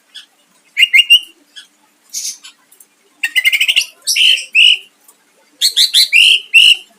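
Cucak ijo (green leafbird) singing in loud, separate phrases of sharp chirps and whistled notes: a short phrase about a second in, a fast stuttering trill a little after three seconds, then clear whistled notes and a quick run of sharp notes near the end.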